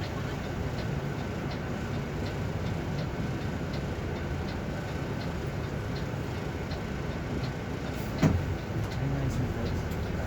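Steady running noise of a vehicle, with a low hum and faint ticks at fairly even spacing; a sharper click comes about eight seconds in.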